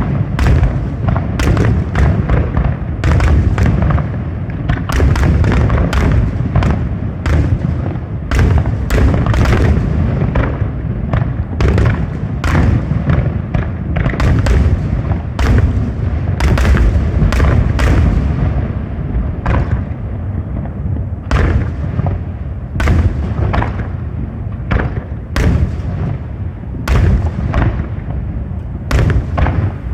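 Fireworks display: a loud, unbroken barrage of aerial shell bursts, several bangs a second overlapping, over a steady deep rumble.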